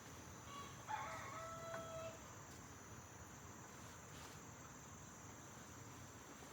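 A rooster crows once, a call of about a second and a half that ends on a held note, over a steady high hiss of background.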